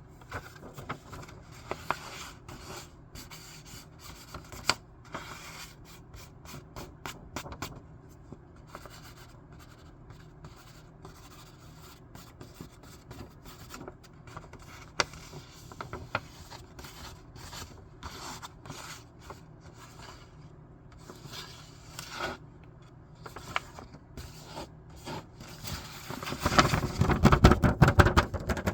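Scissors snipping paper and paper being rubbed and handled, a run of short sharp clicks over soft rustling. Near the end it turns into a much louder, dense rustling of paper.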